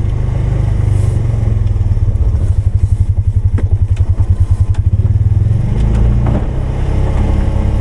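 Polaris 570 ATV engine running steadily, throbbing with a fast even pulse for a couple of seconds in the middle before the sound settles again.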